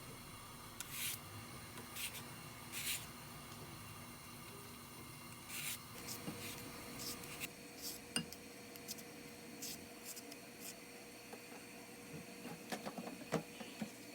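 Dishes and cutlery being handled: scattered light clinks and knocks with some rubbing, over a faint steady hum.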